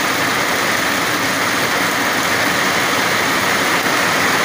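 Heavy rain falling steadily: a loud, even hiss of a downpour.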